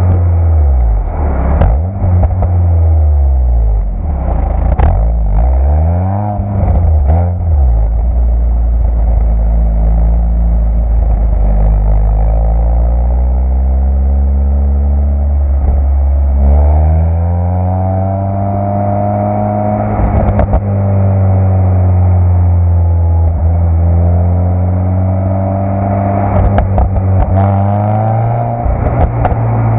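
Citroën Saxo VTS 1.6 16v's 120 hp four-cylinder engine through its stock exhaust, the revs rising and falling several times with long steady stretches in between. A few short sharp clicks sound over it.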